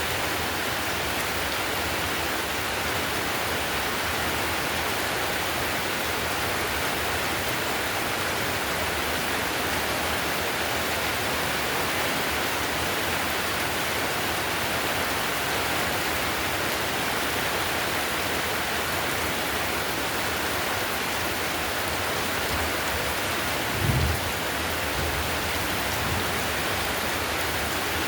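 Heavy rain drumming steadily on a clay-tile roof, an even hiss with no letup. Near the end there is one brief low thump.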